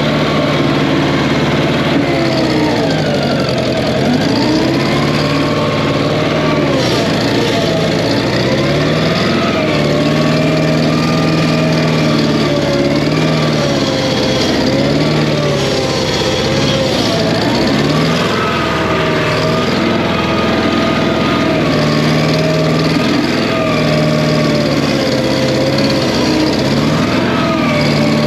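Massey Ferguson 771 skid steer's air-cooled Wisconsin 30 hp engine running with a little bit of a low miss, its pitch dipping and recovering again and again as the hydrostatic drive and hydraulics load it. A whine rises and falls along with it.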